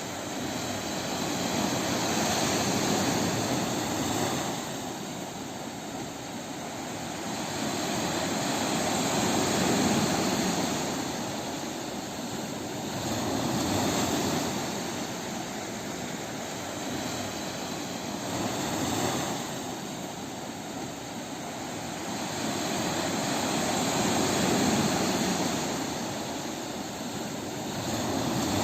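Sea waves breaking on a beach: a continuous rush of surf that swells and fades every few seconds.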